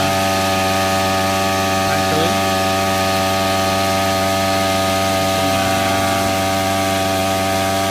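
Small petrol engine of a brush cutter converted to drive a water pump, running steadily at an even speed.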